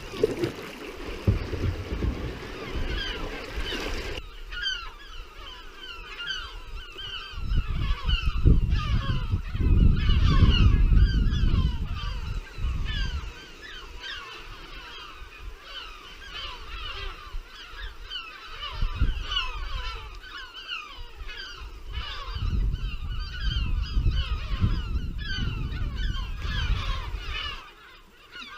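A large flock of birds calling continuously, many short downward-sliding calls overlapping. Bursts of low rumble come and go, the loudest about ten seconds in and again in the last third.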